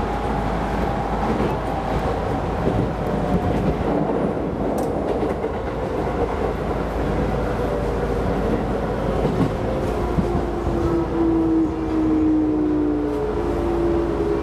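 Keisei Line electric rapid train running on the rails, with a steady rumble and track clatter. Its motor whine slides down in pitch over the first few seconds, then climbs in steps near the end as the train picks up speed.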